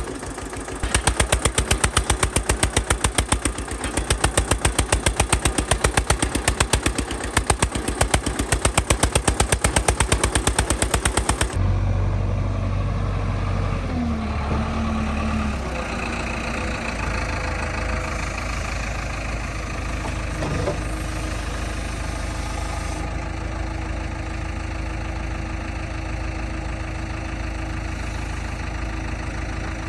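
Eicher 242 tractor engine running. For the first ten seconds or so it gives a loud, fast, even chugging of separate pulses. About eleven seconds in it changes abruptly to a steadier, smoother engine hum, which goes on to the end.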